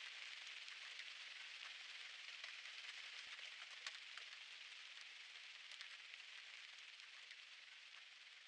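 Faint steady rain, a soft hiss with scattered ticks of individual drops, growing fainter toward the end.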